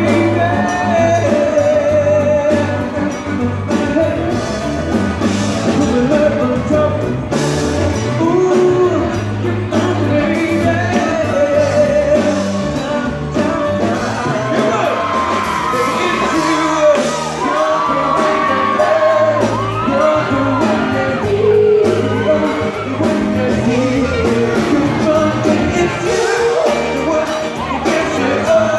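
Live pop song recorded from the audience: a male singer with a full band and drums, with fans shouting and cheering along.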